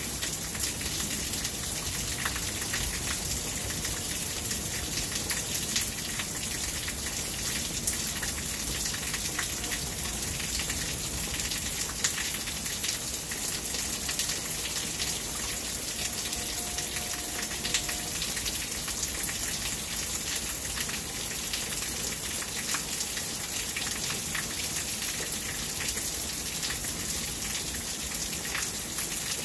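Steady rain falling, with many sharp drop impacts ticking throughout.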